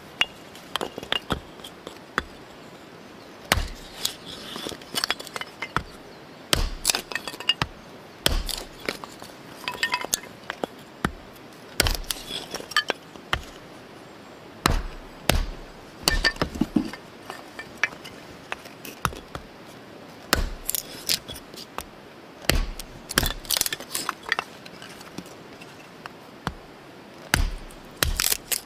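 Irregular knocks and taps with occasional light ringing clinks, one to a few a second, some with a deeper thud.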